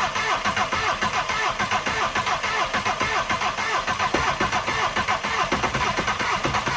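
VW 1.6 diesel engine being cranked over by the starter motor after the glow plugs have warmed, with a rapid, even chugging of about five pulses a second; it does not catch and run.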